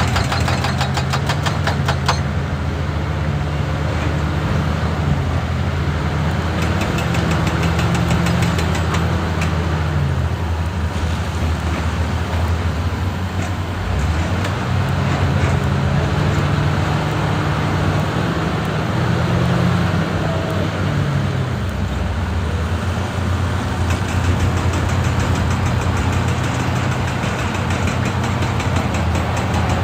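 Hitachi EX200 excavator's diesel engine running, its pitch rising and falling twice as it takes load. Fast rattling strikes are heard in the first couple of seconds and again near the end.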